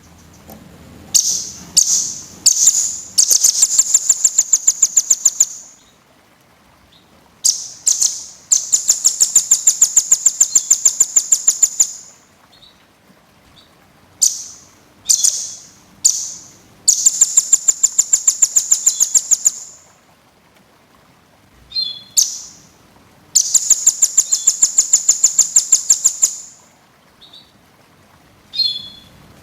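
A small songbird singing in repeated high, rapid trills of pulsing notes, several lasting about three to four seconds, with short single notes and brief pauses between them. This is a dense masteran recording of small birds, used to teach songbirds their calls.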